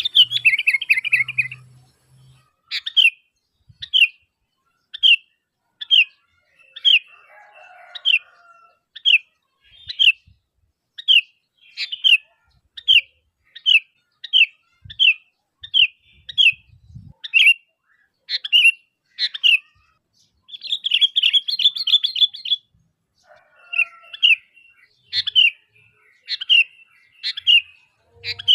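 Sooty-headed bulbul calling: short, sharp notes repeated about once a second, broken by longer chattering runs near the start and about two-thirds of the way through.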